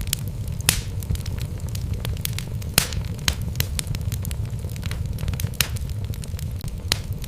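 Wood fire burning in a fireplace: a steady low rumble of flames with irregular sharp crackles and pops from the burning logs, two of them louder, about a second in and near the three-second mark.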